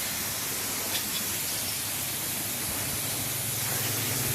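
Steady hiss of a water spray rinsing engine dressing off an engine, with a low hum coming in about three seconds in.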